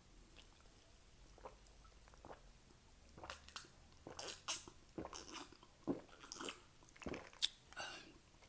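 Close-up crunching and chewing of Doritos nacho chips: the first few seconds are near quiet, then irregular crisp crunches run from about three seconds in to the end.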